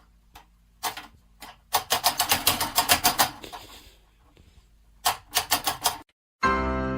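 Quick runs of sharp taps: a long run of several taps a second, then a shorter run near the end.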